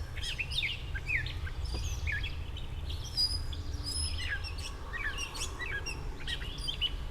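Gray catbird singing: a jumble of short, varied chirps and slurred whistles, one quick phrase after another, over a low steady rumble.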